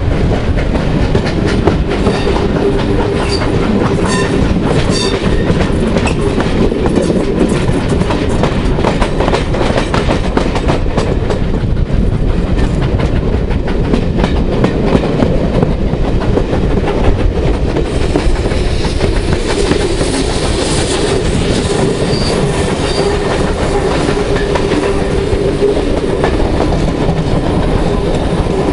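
Steam-hauled passenger coaches running at speed, wheels clattering over rail joints and pointwork, with rushing air noise at an open carriage window.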